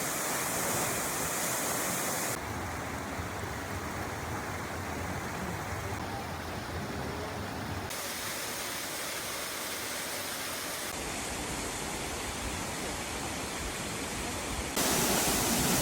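Waterfalls: a steady rush of falling water whose tone and loudness change abruptly four times as the sound cuts from one waterfall to the next.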